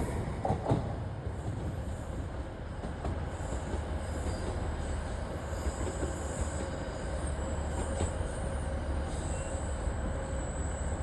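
LNER Class 801 Azuma electric train running into the platform with a steady rumble of wheels on rail. A faint high-pitched squeal comes in during the second half.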